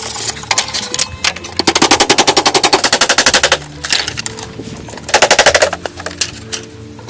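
Rapid mechanical hammering, about seventeen even strokes a second, in a long burst of about two seconds and a shorter one about five seconds in.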